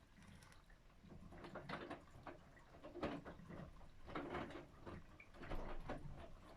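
Whirlpool FSCR90425 washing machine in its softener rinse, the drum turning the wet laundry, with a soft swishing burst a little more than once a second.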